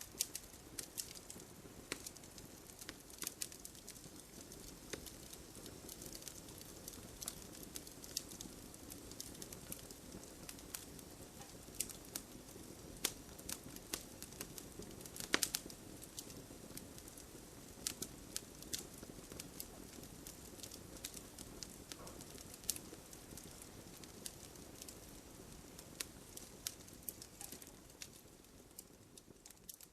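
Campfire crackling: a steady low hiss of burning wood with frequent irregular sharp pops and snaps, one louder pop about halfway through.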